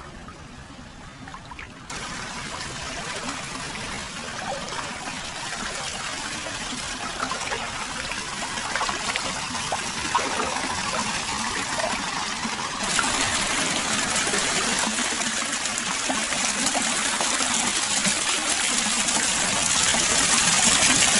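Hot spring water flowing continuously into a foot bath, a steady splashing trickle. It gets louder in a step about two seconds in and again past halfway.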